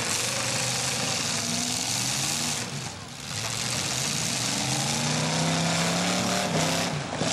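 Several demolition derby cars' engines running and revving as they manoeuvre, with the pitch rising and falling, under a loud, dense noise; the sound dips briefly about three seconds in.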